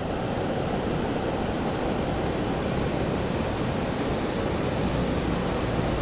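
Steady rush of creek water pouring over a waterfall, an even hiss with no breaks.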